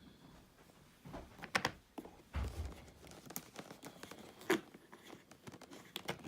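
Drone box packaging being handled during unboxing: rustling, with scattered sharp clicks and knocks and a low thump about two and a half seconds in.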